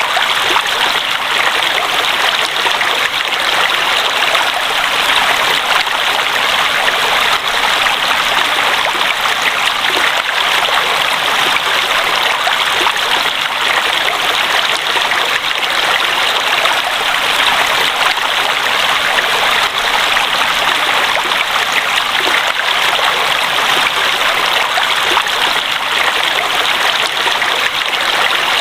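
Water flowing in a stream, a steady, even rush that does not change.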